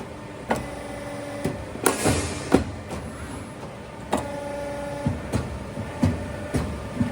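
CNC tube punching and flanging machine at work: its drive motor whines in short spells of about a second, between sharp mechanical clicks and knocks.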